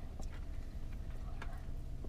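Chewing and biting into crispy fried chicken wings: a few faint crunches and mouth clicks over a steady low rumble.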